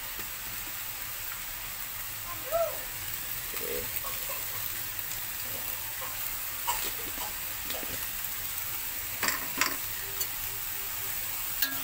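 Fermented mustard greens frying in a pan with a steady sizzle. A few separate clicks of a spatula stirring against the pan come through it.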